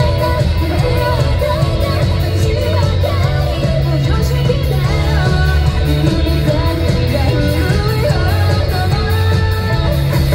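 Live J-rock band playing at full volume: female lead vocals over distorted electric guitar, bass and a steady drum beat.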